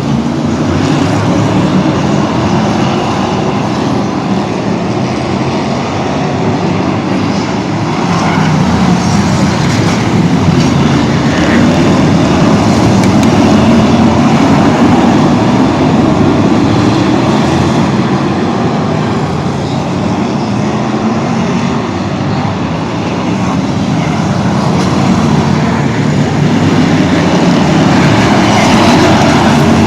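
Continuous motor-vehicle engine and road rumble, loud and steady, swelling and easing every several seconds.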